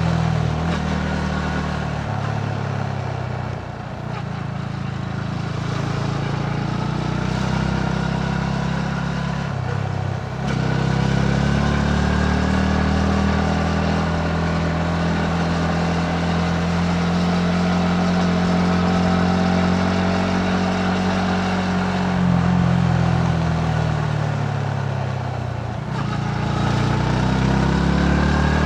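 Yamaha MT-15's single-cylinder engine under way, heard from the rider's seat with wind and road noise. The engine note holds steady for long stretches and sinks away once. Twice, about a third of the way in and near the end, the note dips sharply and climbs again.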